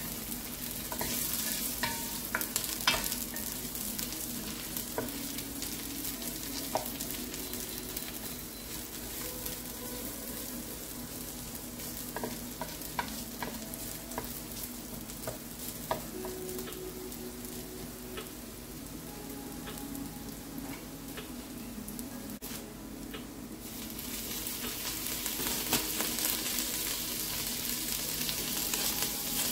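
Onions sizzling in butter in an enamelled cast-iron Dutch oven, stirred with a wooden spatula that scrapes and taps against the pot. Near the end the sizzle briefly drops, then comes back louder as shredded chicken is added with tongs.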